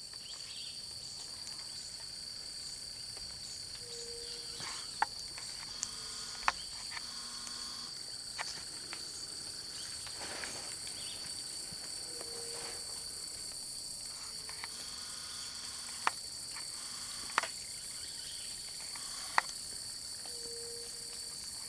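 Steady, high, continuous chirring of crickets or other insects in chorus. Several sharp clicks stand out above it, the loudest events, with a few short low tones between them.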